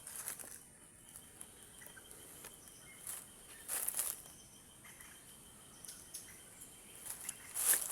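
Steady high buzzing of insects, with a few brief rustles, about four seconds apart.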